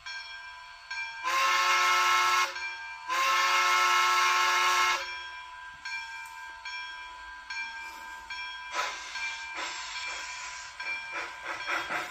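Steam locomotive whistle blowing two long blasts, the usual signal that a train is about to move off. It is followed by steam hiss and then the even chuffing of the locomotive starting away, which quickens near the end.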